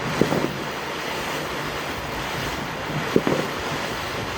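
Steady hiss of a burning ground fountain firework, with two short bursts of pops, one near the start and one about three seconds in.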